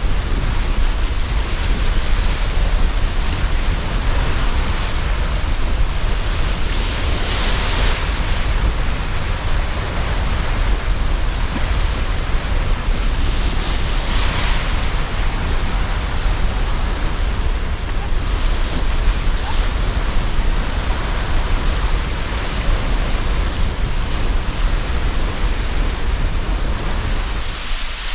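Sea surf washing ashore in strong wind, with a steady low rumble of wind on the microphone. The waves swell and break every several seconds, a few times in all.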